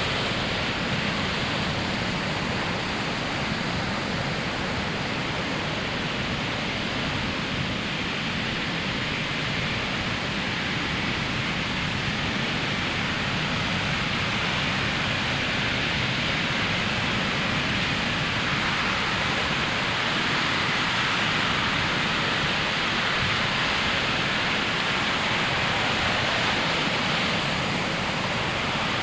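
Ocean surf breaking on a sandy beach: a steady wash of waves with no single break standing out, swelling a little in the second half.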